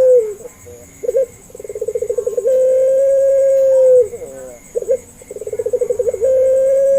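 Puter pelung, a domestic ringneck dove, cooing: a quick rolling run of pulses leads into one long, level coo that drops away at the end. The call repeats about every four seconds, twice in full here.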